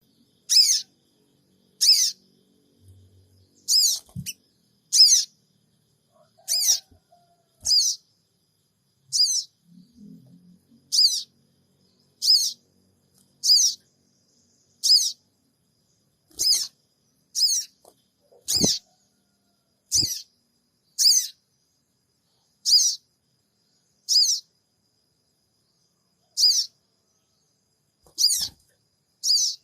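A sogon bird giving short, sharp, high-pitched 'cingik' calls over and over, about one every second or so, with a few faint low knocks between them. It is a lure call, meant to provoke other sogon birds into calling back.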